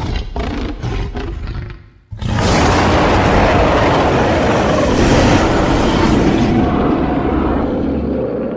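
Mixed creature roar sound effect voicing a mountain gorilla, made from movie monster roars: a quick run of short grunts, a brief break about two seconds in, then one long, loud roar that fades near the end.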